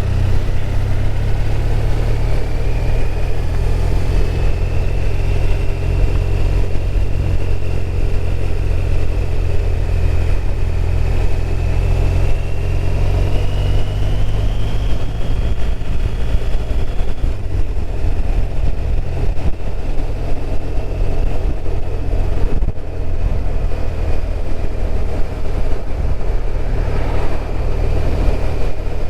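BMW R1200RT's flat-twin engine running under way, with steady wind and road noise; the engine's pitch drifts slowly up and down as road speed changes.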